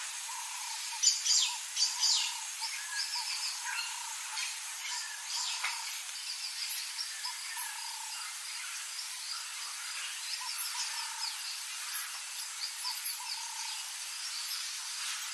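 Birds calling in a natural soundscape, with a short, very high-pitched chirp repeating about once a second alongside varied lower notes.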